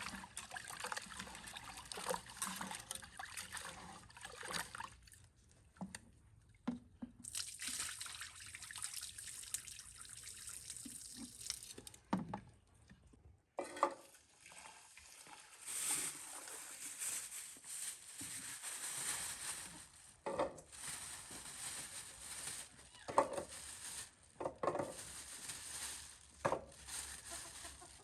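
Water trickling and splashing, with scattered knocks, in stretches broken by short pauses.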